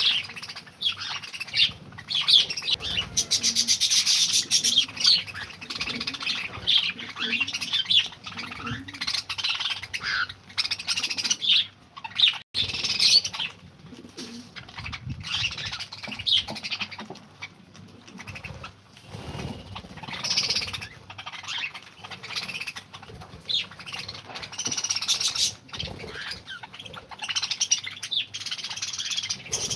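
A colony of pet cockatiels and lovebirds chirping and calling, with many short high calls overlapping.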